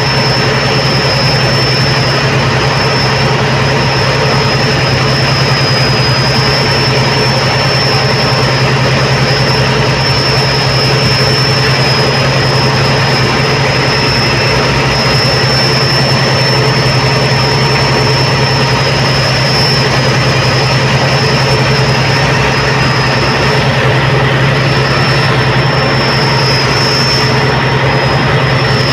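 Tugboat's marine diesel engines running steadily under load while towing a loaded oil barge, a loud low drone with a thin high whine over it.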